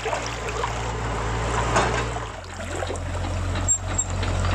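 Shallow river water trickling and splashing, under the steady low hum of radio-controlled model excavators' electric motors. The hum shifts in pitch about two seconds in.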